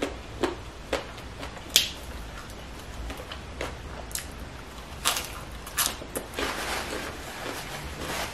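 Close-up chewing of crisp raw purple leafy greens: irregular crunches and mouth clicks, the sharpest about two seconds in, with a denser run of crunching about six to seven seconds in.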